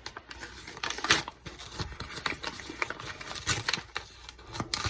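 A new bag of flour being pulled and torn open by hand, with irregular crinkling and rustling of the bag.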